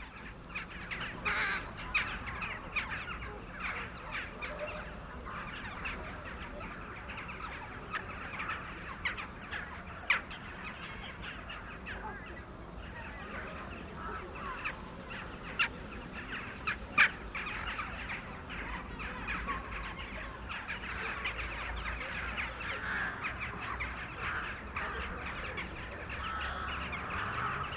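A flock of crows cawing, with many calls overlapping and a few louder, sharper calls standing out now and then.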